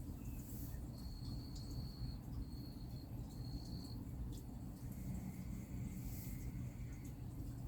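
Faint outdoor ambience with a steady low rumble, and a high, steady insect trill that sounds three times in short stretches between about one and four seconds in.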